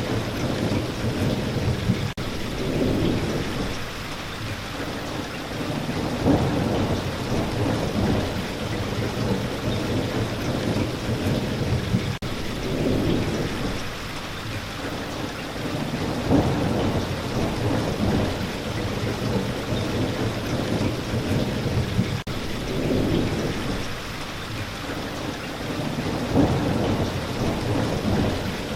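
Steady spring rain falling, with low rolls of thunder swelling and fading about every ten seconds.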